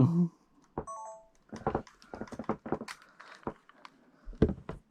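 A short electronic beep falling in three steps, then a scattered series of light clicks and knocks.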